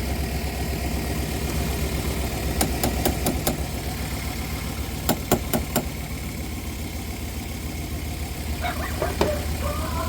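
Van engine idling steadily, with two quick runs of sharp clicks, about five and then four, while the dead heater blower motor is being tested. A brief wavering high-pitched whine comes near the end.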